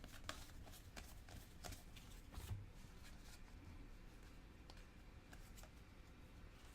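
Faint clicks and light rustling of Donruss soccer trading cards being flipped through by hand, busier in the first few seconds.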